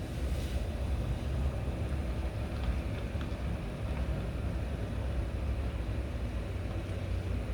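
Steady, fluctuating low outdoor rumble, with a few faint short high chirps about three seconds in.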